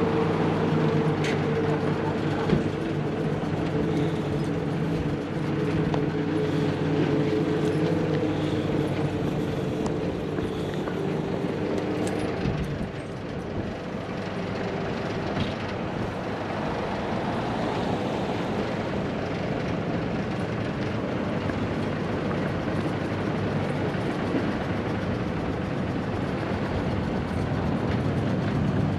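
Large vehicle engine running with a steady hum. After about twelve seconds the hum drops away into a broad rushing traffic noise.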